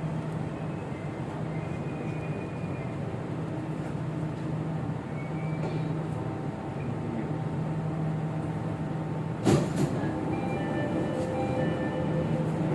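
MRT Jakarta electric train running, heard from inside the carriage: a steady rumble and hum with faint motor whine tones, and one sharp knock about nine and a half seconds in.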